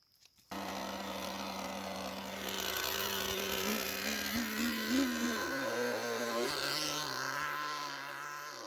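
Small nitro engine of an RC jet ski buzzing, its pitch wavering with throttle about halfway through, then settling lower.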